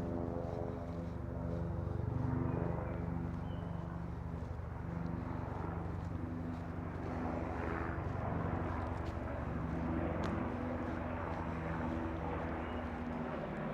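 Military aircraft flying over, a steady droning engine that wavers slightly in pitch.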